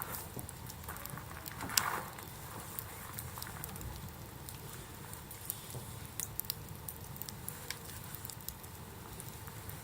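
Campfire burning, crackling with scattered sharp snaps and one louder pop about two seconds in.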